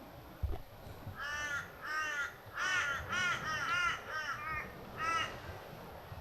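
A crow calling, a run of about nine short caws over some four seconds. A single dull thump comes about half a second in, before the calls.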